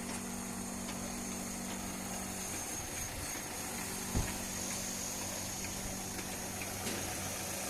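A 2008 Hyundai Tucson's engine idling steadily, with a single knock about four seconds in.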